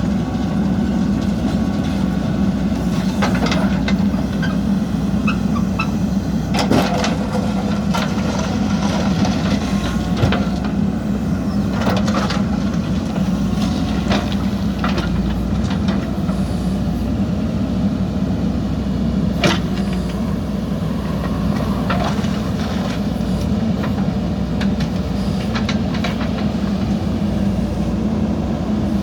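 JCB backhoe loader's diesel engine running steadily under work, with scattered sharp knocks and clanks at irregular intervals.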